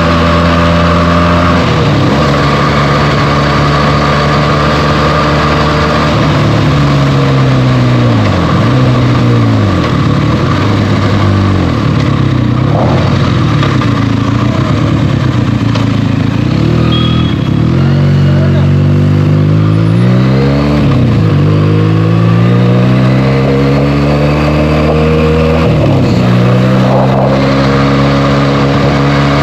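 Benelli TNT 300's 300 cc parallel-twin engine through its stock exhaust while riding. It holds steady revs at first, then revs rise and fall again and again with throttle changes and gear shifts, including a long climb in revs before a shift near the end.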